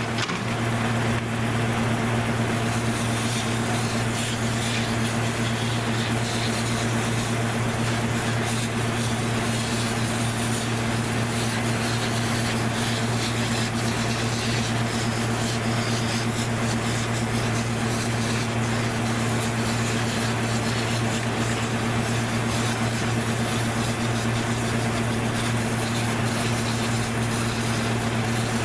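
A motor or small engine running steadily without change, a constant hum with an even hiss over it.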